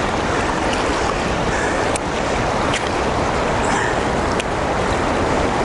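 Steady rushing of river water in the tailwater below a lock and dam, with a few faint clicks over it.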